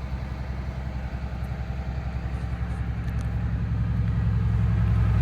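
2009 front-engine Blue Bird school bus's diesel engine idling steadily with a low, even rumble, growing gradually louder.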